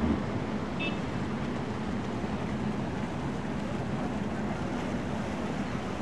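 Steady wind noise on the microphone over a low, even hum, with one brief high chirp about a second in.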